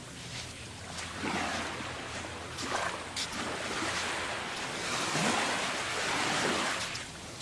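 Small waves breaking and washing up the beach, the surf swelling twice.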